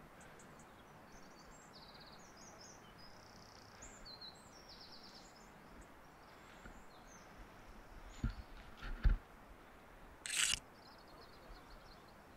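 Small songbirds chirping and trilling faintly over a steady outdoor hiss. A few low thumps come about two-thirds of the way through, followed by a brief rustle.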